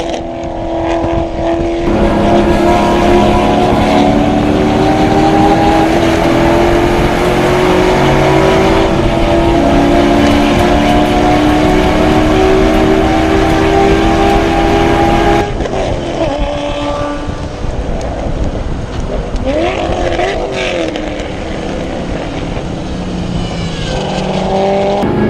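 400 hp LS1 V8 in a BMW E30 race car, heard onboard at full throttle, its pitch slowly climbing through one long pull. Past the middle it lifts off, with two quick rev blips for downshifts under braking, then goes back on the throttle near the end.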